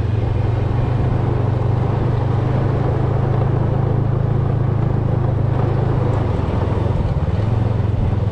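Snowmobile engine running steadily under way, with a strong low hum. Its pitch dips briefly about six and a half seconds in, then picks up again.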